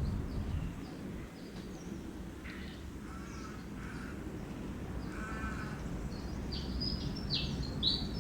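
Birds chirping: a string of short, high, repeated chirps that grows louder and quicker in the last couple of seconds, with two lower, harsher calls near the middle, over a steady low rumble.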